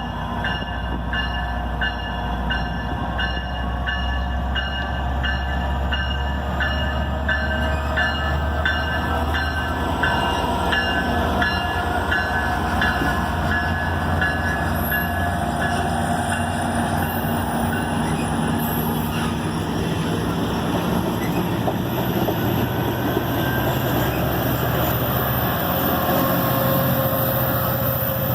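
Diesel-hauled passenger train rolling through the station: a steady low rumble with a regular clicking of wheels over rail joints, about one to two clicks a second, that fades out about halfway through.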